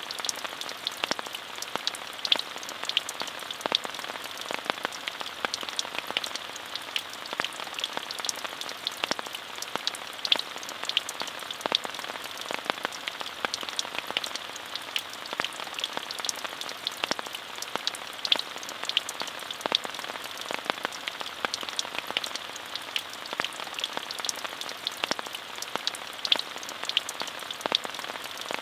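Steady rain falling, with many distinct drops ticking over an even hiss that sits mostly in the upper range.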